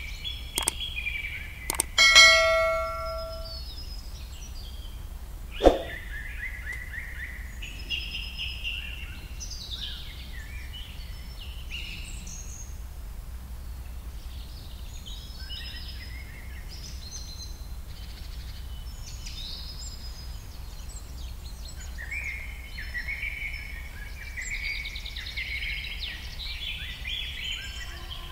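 Small birds chirping and calling on and off throughout, over a steady low hum. A few sharp knocks stand out, and about two seconds in comes one ringing clang that fades away over a second or so.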